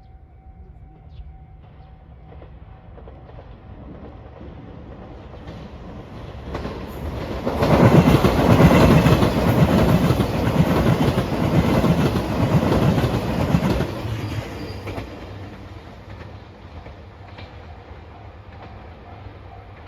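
Level crossing warning bell ringing in a steady repeating tone while a train approaches. The train passes the crossing loudly for about six seconds, its wheels clattering on the rails, then fades away with the bell still ringing.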